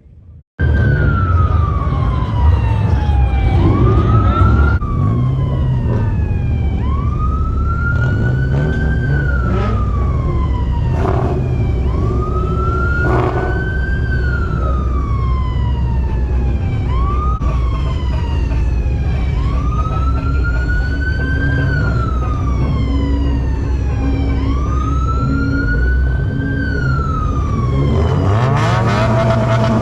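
Emergency vehicle siren wailing, its pitch slowly rising and falling over and over, over a loud steady low vehicle rumble. Near the end the wail stops and steadier engine tones take over.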